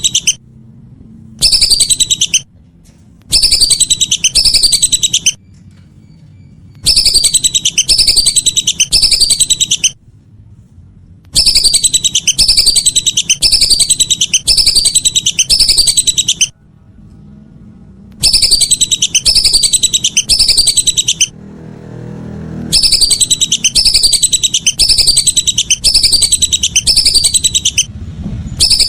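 Lesser whistling ducks calling: bouts of repeated high, falling whistles, about two a second, broken by short pauses, over a low hum.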